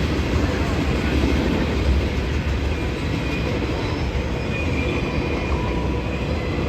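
A train running by with a steady, continuous rumble of wheels on rail. Faint high-pitched wheel squeal comes in around the middle.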